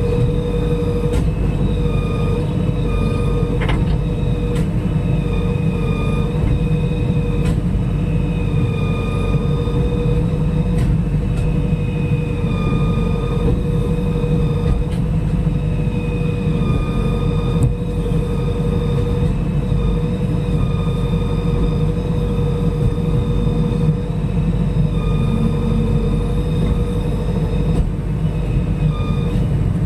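Excavator's diesel engine running steadily with a low rumble, with a high whine that comes and goes over it and a few sharp clicks.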